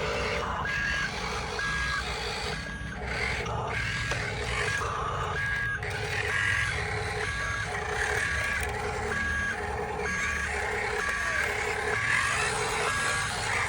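Truck reversing alarm beeping steadily, about two beeps a second, over a low rumble.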